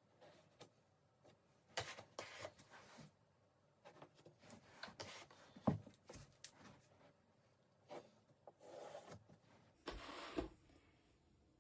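Faint, irregular scraping and rubbing strokes of plaster being spread and smoothed over a canvas.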